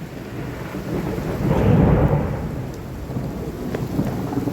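Thunder rolling after a lightning strike, a deep rumble that swells to its loudest about two seconds in and then slowly dies away, over steady heavy rain.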